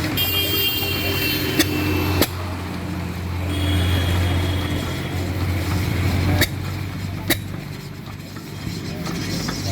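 14 hp Lister-type diesel engine running steadily with a low hum, broken by a few sharp knocks.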